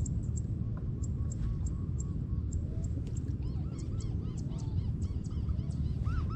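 A bird calling in a series of short, arched notes. They are faint at first, then come faster and louder toward the end, several a second. Under them runs a steady low rumble.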